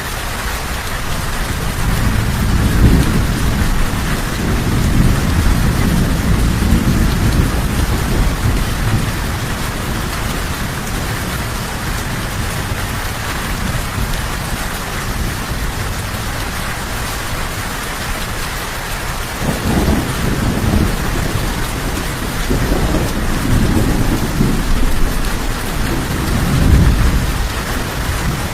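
Steady rain falling, with thunder rumbling low underneath: one long roll a couple of seconds in that fades by about nine seconds, then another series of rolls starting about twenty seconds in.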